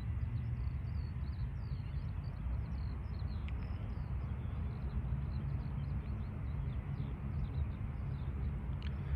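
Steady low rumble of outdoor air and distant traffic, with small birds chirping over it.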